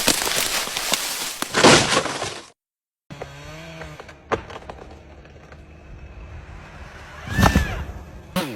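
A loud crash of breaking and cracking wood, the sound of a felled tree or big limb coming down and hitting the ground, lasting about two and a half seconds and then cutting off suddenly. After that there are a few scattered knocks and one short loud sound near the end.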